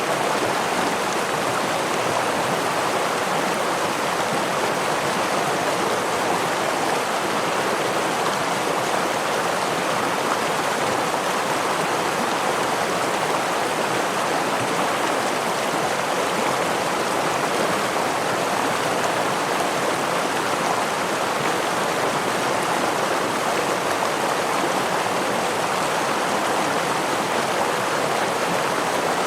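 A stream flowing over a small waterfall: a steady, even rush of water that does not change, with no separate splashes standing out.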